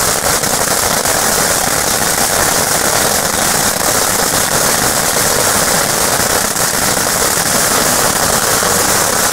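Firework giving off a dense, continuous crackling at a steady level, made of many rapid small pops with no single large bang.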